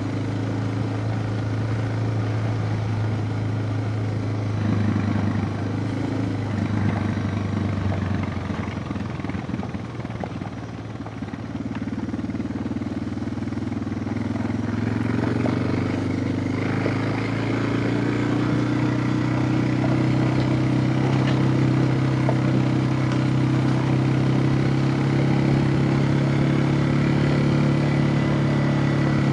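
Suzuki DR650 single-cylinder motorcycle engine running. It eases off briefly about ten seconds in, then its pitch rises gradually over several seconds and holds steady at a higher note.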